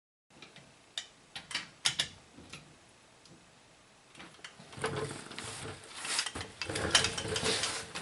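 Ratchet and hand tools working on the wheel hub's mounting bolts: a few separate sharp clicks and clinks of metal, then from about five seconds in a busier stretch of ratcheting and metal clatter.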